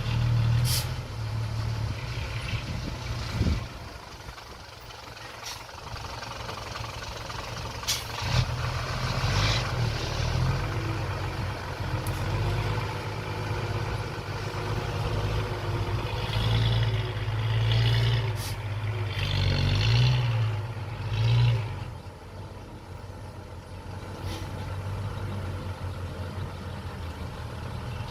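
Small Komatsu bulldozer's diesel engine running under load, swelling and easing as it works, with a few sharp clanks along the way.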